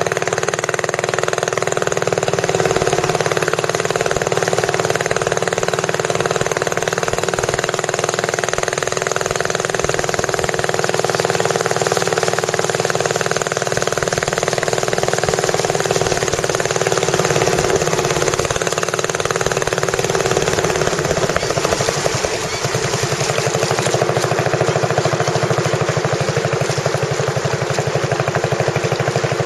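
Tourist boat's engine running steadily. It dips briefly in level about 22 seconds in, then carries on with an even pulsing beat.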